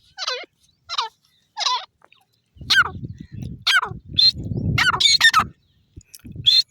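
Grey francolin calling: a series of short, loud notes with wavering, falling pitch, repeated about once or twice a second. A low noise runs under the calls in the second half.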